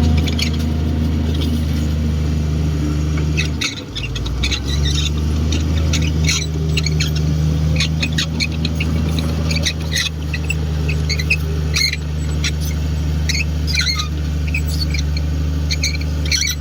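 Komatsu D58 bulldozer's diesel engine running steadily under load, with many short high squeaks and squeals over it. The engine sound dips briefly about four seconds in, then picks up again.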